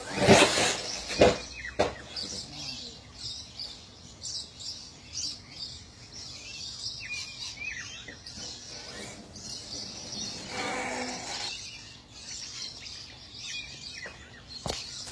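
Birds chirping, short scattered calls, with a few loud knocks in the first two seconds.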